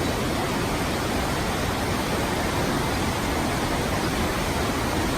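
Waterfall rushing: a steady, even roar of falling water with no breaks or changes.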